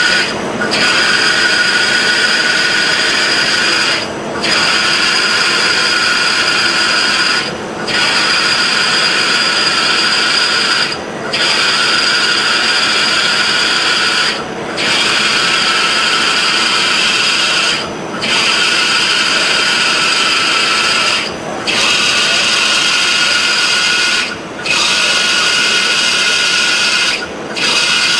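Milling machine cutting, a steady noisy whir with a high steady whine in it. It drops out briefly about every three and a half seconds, as each pass ends and the next begins.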